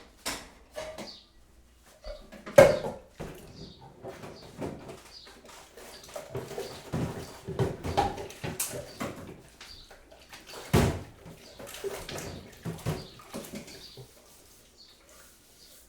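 Kitchen work while making tea and cake: an irregular run of knocks, clinks and scrapes of utensils and crockery, with two louder knocks, one about two and a half seconds in and one near eleven seconds. The clatter dies away over the last couple of seconds.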